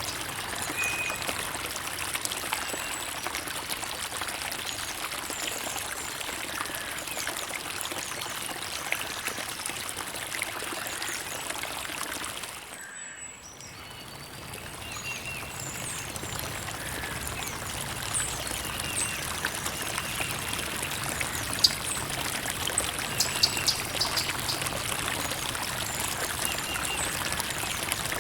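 Creek water trickling and burbling steadily, briefly dipping in level about halfway through before coming back up. A few sharper splashes stand out in the second half.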